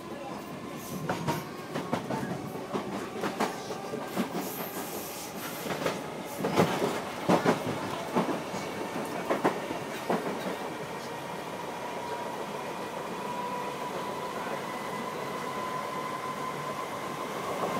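Merseyrail electric train running, heard from inside the carriage. The wheels knock irregularly over rail joints through the first half, then give way to a steadier rumble with a thin whine that slowly rises in pitch.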